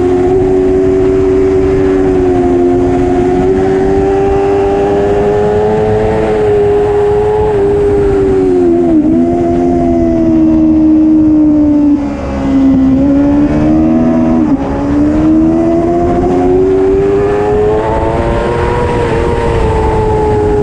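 Superbike engine held at high revs under racing load, its pitch climbing slowly and dipping sharply three times around the middle before climbing again, over a steady rush of wind and road noise.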